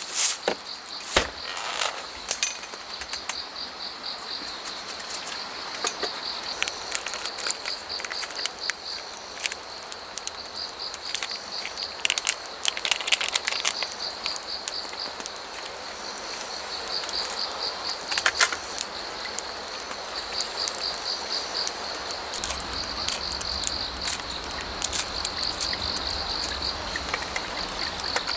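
Crickets chirping in fast pulsed trains that come and go, with scattered sharp clicks over a steady background hiss.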